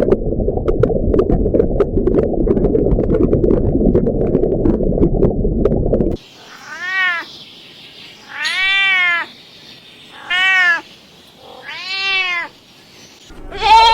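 A loud low rumbling noise with scattered clicks for about six seconds, then a domestic cat meowing four times, each meow rising and then falling in pitch.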